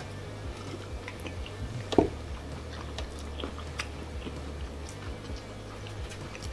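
Close-up chewing and mouth sounds of a man eating a chicken parm sub, with small wet clicks throughout and one louder knock about two seconds in.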